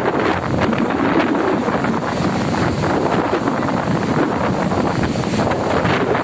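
Storm wind blowing hard across the microphone, a steady loud rush of noise.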